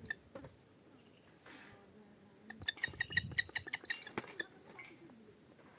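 A bird calling in a rapid run of sharp, high chirps, about six a second, lasting about two seconds.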